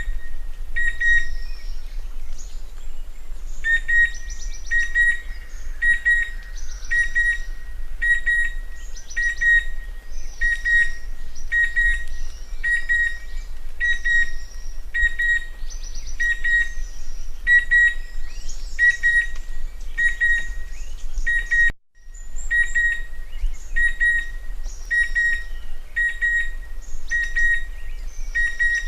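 Chestnut-winged cuckoo calling: short, shrill whistled notes at one steady pitch, repeated about once a second in a long unbroken series, with fainter higher chirps from other birds behind.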